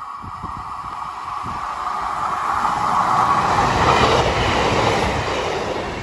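Northern diesel multiple unit approaching along the line and passing the platform close by. Its running gets steadily louder to its loudest about four seconds in, a steady high hum over a rumble of wheels on rail.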